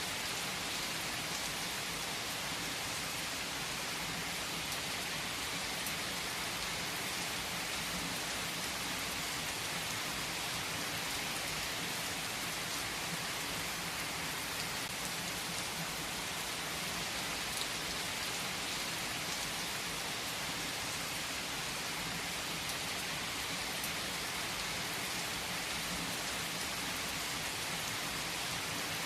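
Steady rain, an even hiss of drops falling on a surface, with a few faint clicks now and then.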